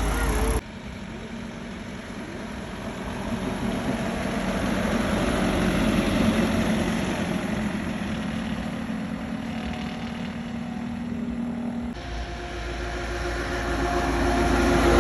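Heavy truck engine running, growing louder over the first few seconds. The sound changes abruptly twice where clips are cut together.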